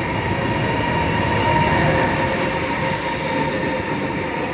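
Chinese high-speed electric train arriving at a platform and rolling past close by: a steady rumble and rush of rolling noise with a steady whine through it, slightly loudest a couple of seconds in.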